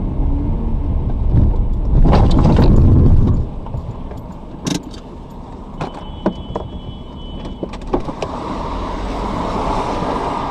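A car on the move, with a heavy low rumble about two seconds in that drops away after a second and a half, then a few sharp clicks and a rush of noise that swells near the end.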